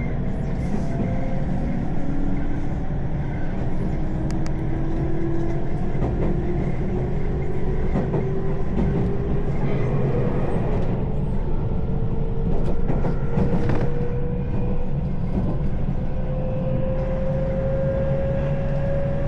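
Electric train running with a steady low rumble and a motor whine that rises slowly in pitch as it gathers speed, with a few clicks from the wheels near the middle.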